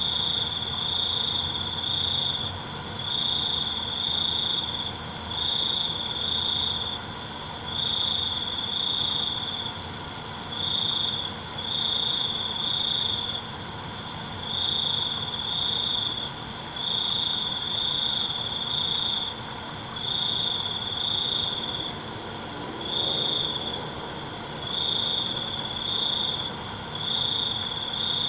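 Crickets chirping: one loud, high trill comes in short bursts about every second and a half, over a chorus of fainter, higher-pitched insect chirps and steady buzzing.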